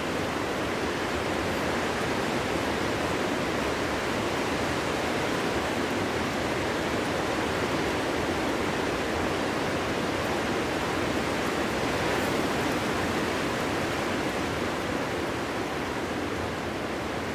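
Wind blowing steadily, an even rushing with no gusts or howling tones.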